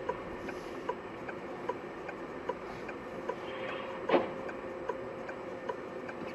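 A car's turn-signal flasher clicking steadily inside the cabin, a little more than once a second, with a louder knock about four seconds in.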